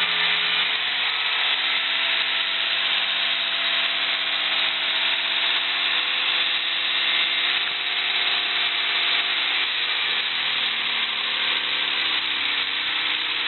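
A freshly restored engine running steadily on a test run, its pitch wavering a little.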